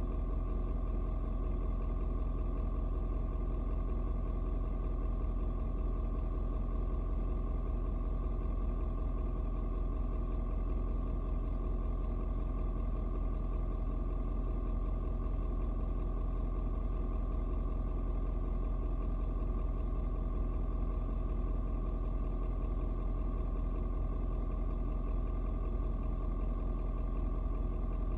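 Ford Super Duty's 6.7 Power Stroke V8 turbodiesel idling steadily while it warms up after a cold start, its idle not yet dropped.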